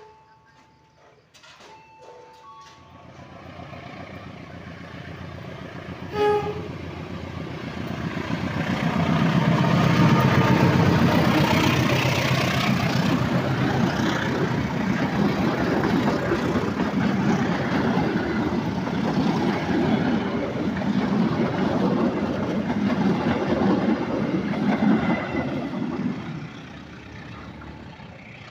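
Train running close by on the rails. Its wheel and rail rumble builds over several seconds, runs loud for about fifteen seconds, then drops off near the end. A brief pitched toot sounds about six seconds in.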